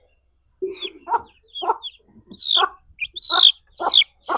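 Domestic chick peeping loudly and repeatedly, about twice a second, each peep sliding down in pitch: the distress calls of a chick being handled while its wounds are sprayed with medicine.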